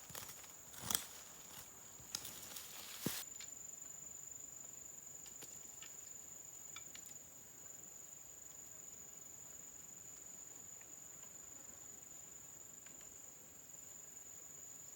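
An insect drone, one steady high-pitched tone held throughout, typical of a cricket or cicada. A few sharp knocks or rustles come in the first three seconds, the loudest about a second in.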